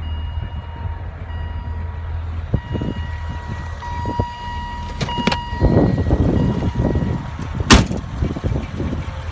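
1990 BMW 325i's straight-six idling steadily, with some clicks and handling rustle, then one sharp, loud clack near the end as the hood latch pops open.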